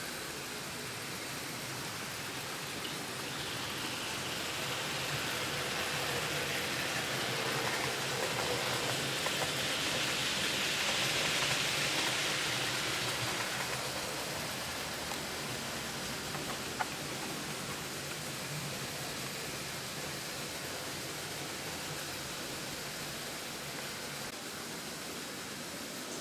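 00 gauge model freight train rolling along the track: a steady hiss of wheels and running noise that swells as it passes close, around the middle, then fades, with a single sharp click about 17 seconds in.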